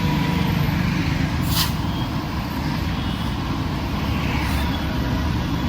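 Busy city road traffic: a steady low rumble of passing vehicle engines and tyres, with a short sharp hiss about a second and a half in.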